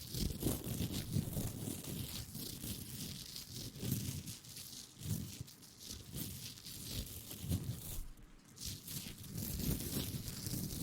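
ASMR rustling right at the microphone: irregular rubbing and crinkling with soft low bumps, rising and falling every second or so and dipping briefly near the end.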